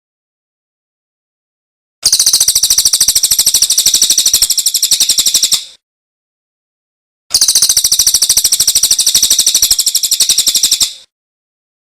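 Songbird song in two rapid, evenly pulsed high trills, each lasting about three and a half seconds, separated by a few seconds of silence.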